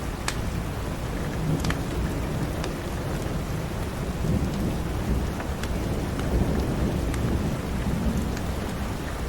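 Steady rain with a low roll of thunder swelling through the middle and fading toward the end. Scattered sharp pops of a crackling wood fire sound over it.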